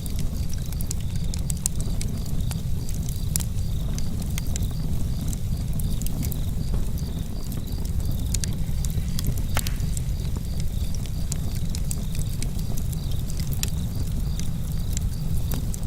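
Campfire crackling and popping, with many small sharp snaps over a steady low rumble and one louder crack a little past the middle.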